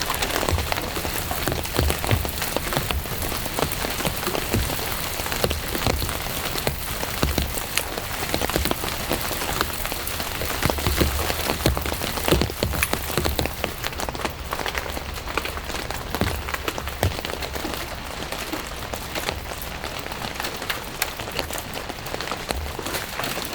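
Steady rain, with many individual drops striking a surface.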